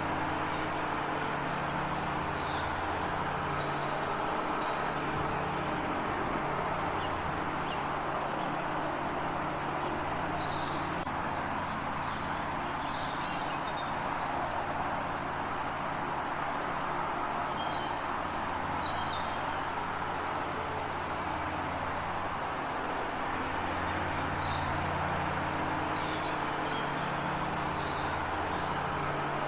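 Small birds chirping and twittering in scattered bursts over a steady background hiss and a low hum. The hum swells near the start and again near the end.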